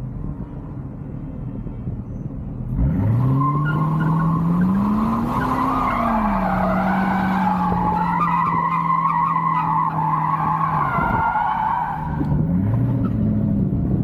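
V8 muscle car engine revving up hard about three seconds in and held at high revs while the rear tyres spin and squeal in a burnout. The engine drops back and the squeal stops about eleven seconds in, then the engine revs up again near the end.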